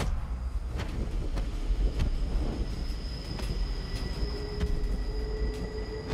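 A train passing close by: a heavy continuous rumble broken by sharp knocks and clacks. A steady high-pitched whine comes in a little past halfway.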